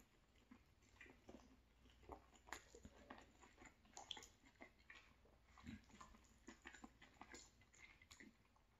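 Faint chewing of a mouthful of sausage rigatoni in cheesy tomato sauce, with many soft, irregular wet clicks from the mouth.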